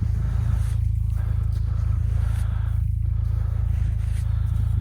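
Truck engine idling steadily, a low even running sound with a fast regular pulse.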